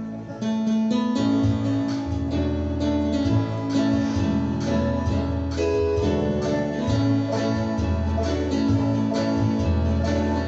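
Live band playing the instrumental introduction to a gospel song, led by acoustic guitar with a bass line that comes in about half a second in.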